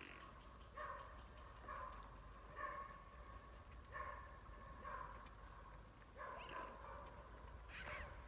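Swans calling: a series of short honking calls, roughly one a second.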